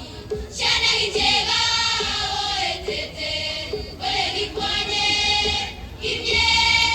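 Music with a choir singing long held notes in short phrases, with brief pauses between them.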